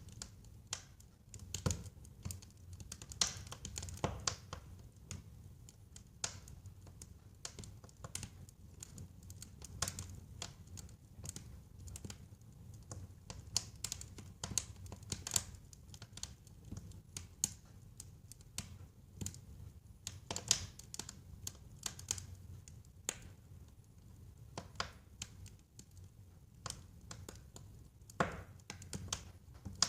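Wood fire burning in a fireplace, crackling with many sharp, irregular pops over a low steady rumble of flame.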